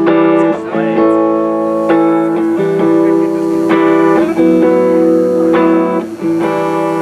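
Solo electric guitar playing the slow intro of a song, held chords changing about every second.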